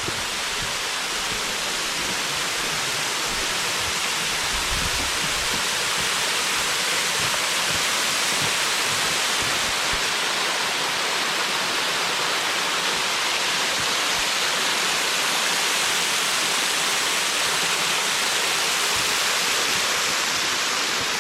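Waterfall: a steady, dense rush of falling water, growing slightly louder over the first several seconds.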